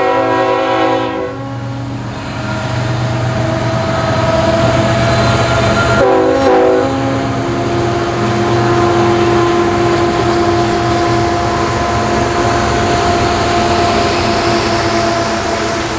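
Freight train locomotive horn: a blast that ends about a second in and a second short blast about six seconds in. Between and after the blasts come the rumble of the CN locomotives and hopper cars rolling past on the rails, with a steady hum under it.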